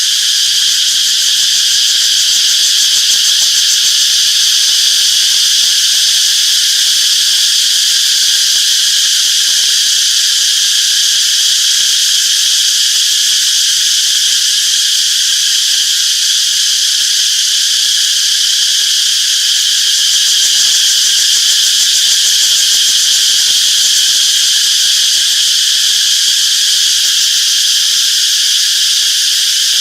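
Cicadas singing in a dense, steady chorus, a continuous high buzz that holds unchanged throughout.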